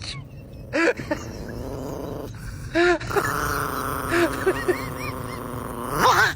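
An animal's short, high, rising-and-falling yelps in several bunches over a steady background noise.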